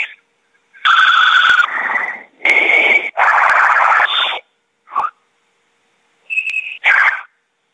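Garbled electronic noise over a phone call: a run of harsh hissing bursts that switch on and off abruptly, some carrying a steady whistle-like tone, with clicks and dead gaps between them. It is the strange feedback heard on an iPhone call that connected but never reached the person called.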